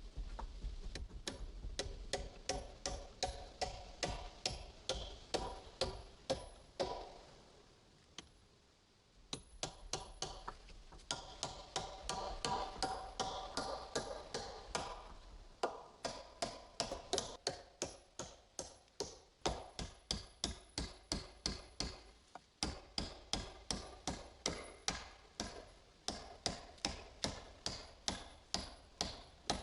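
Hammer blows on wood, a steady run of sharp strikes about two a second, each ringing briefly, with a few short pauses between runs.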